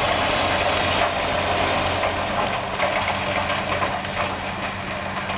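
Heavy diesel engine idling steadily, with a few light clicks and knocks in the second half.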